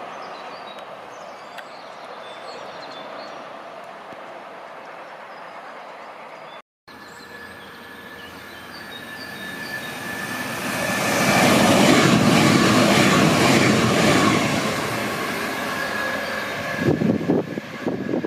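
An electric freight train running past at a distance with a steady rumble, then a red regional electric multiple unit passing close by: its rush of wheels on rail swells to a loud peak and fades as it moves away, ending in a quick irregular clatter.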